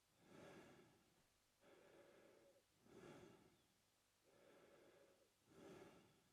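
Adult man breathing through his mouth at a slow, even pace, faint. There are about three breath cycles, each a quieter, steadier breath followed by a louder, shorter one.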